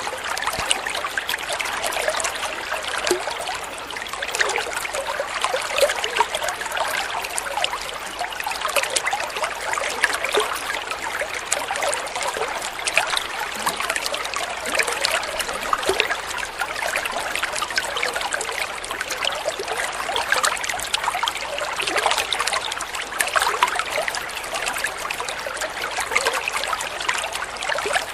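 Flowing water trickling and splashing steadily, a dense, bright babble without pauses.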